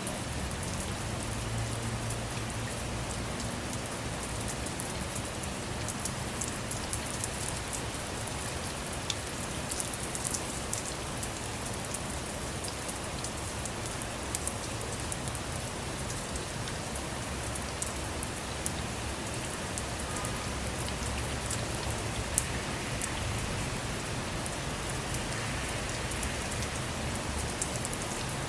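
Steady rain falling on a car, with a dense patter of drops striking its roof and windows and a low rumble underneath.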